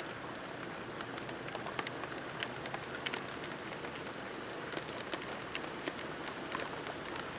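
Rain falling steadily, with many single drops ticking sharply on nearby surfaces.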